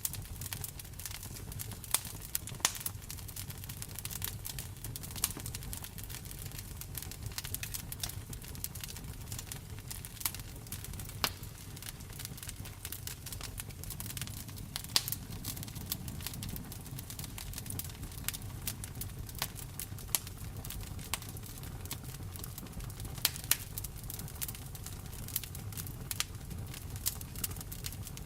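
Wood fire crackling in a fireplace, with frequent irregular sharp pops, over a steady bed of rain.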